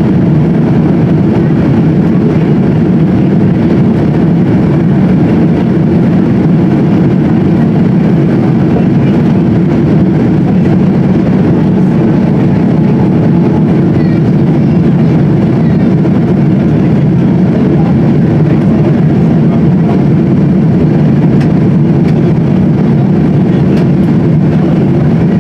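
Steady drone of engine and airflow noise inside the passenger cabin of a Boeing 777-200, with no change in level.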